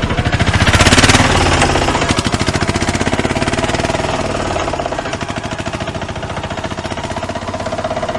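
A rapid mechanical rattle, loudest about a second in, then steady.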